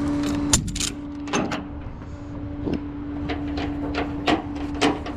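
Cab of a tow truck driving slowly: a steady hum with scattered clunks and rattles, the sharpest about half a second in.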